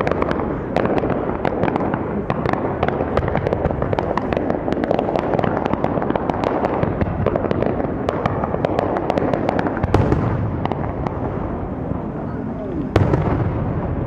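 Fireworks going off: dense, rapid crackling and popping throughout, with two louder bangs about ten and thirteen seconds in.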